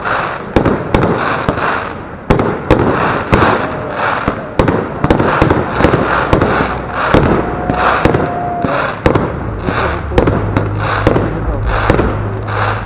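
Display fireworks: aerial shells bursting in quick succession, a dense run of sharp bangs with crackle between them.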